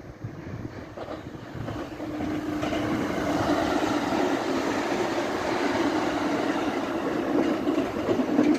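Electric train running past, its rumble rising about two seconds in and then holding steady and loud.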